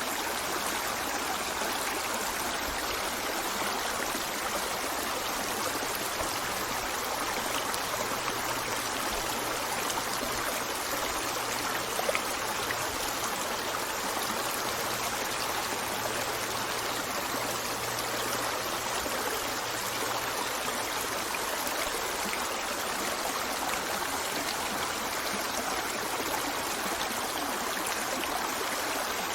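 Stream of water running steadily over rocks, an even rushing and trickling with no breaks.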